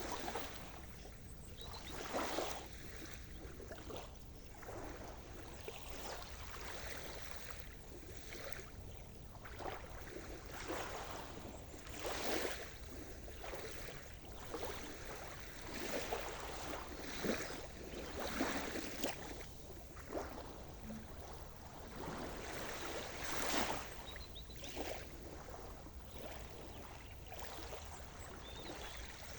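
Sea surf: waves washing and splashing at the shore in irregular bursts every second or two, over a steady low wash of water.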